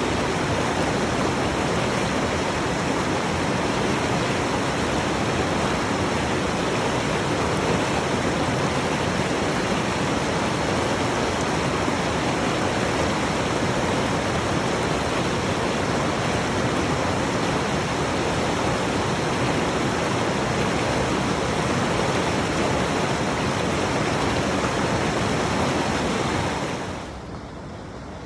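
Avalanche Creek's rushing water, a loud steady rush of whitewater that drops away suddenly near the end.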